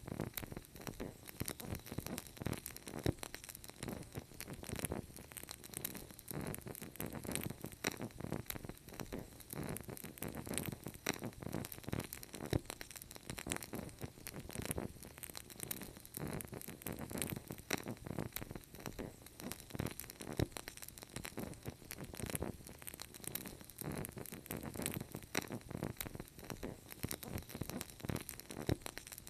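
Wood fire crackling in a fireplace: a dense, irregular run of small pops and snaps over a soft hiss, without letting up.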